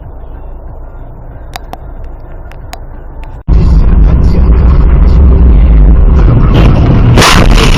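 Car road and engine rumble with a few faint clicks. About three and a half seconds in it cuts abruptly to a much louder, heavy low rumble near full level, with a harsh sudden burst near the end.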